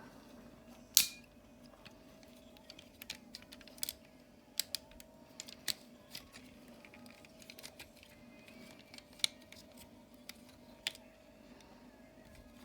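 Plastic parts of a Generation Toy Longhaul transforming dump-truck figure clicking and knocking as they are handled and folded: scattered small clicks, the sharpest about a second in, over a faint steady hum.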